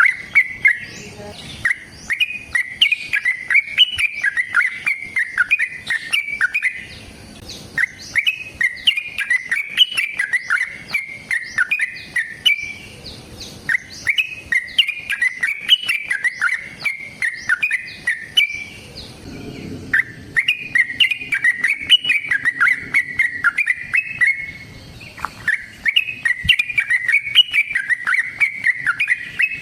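Yellow-vented bulbul (trucukan) singing long, rapid, bubbling song phrases, each a few seconds long with short pauses between them, about five phrases in all. This is the lively 'gacor' song used as a lure to provoke other bulbuls into answering.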